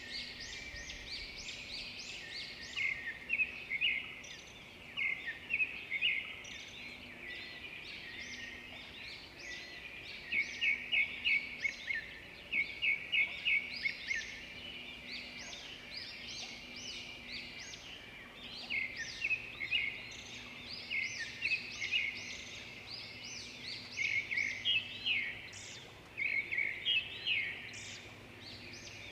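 Several small birds singing and chirping together, in quick overlapping trills and short high notes that come in dense runs and then thin out.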